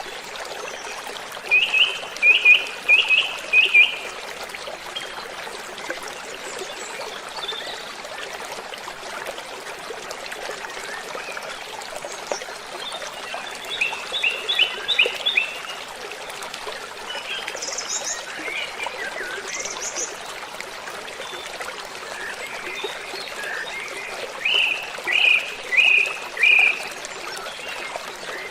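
Waterfall rushing steadily, with a bird singing a short phrase of four or five quick notes three times, about ten seconds apart, and a few higher single calls in between.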